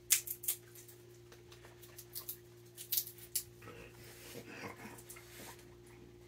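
A raccoon giving a short wavering vocal call for about two seconds, after a run of sharp clicks and cracks from peanuts being handled in their shells.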